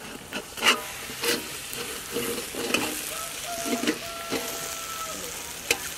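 Ivy gourd fry sizzling in a covered kadai, with a few sharp metallic clinks as the steel plate lid is gripped and shifted with a cloth.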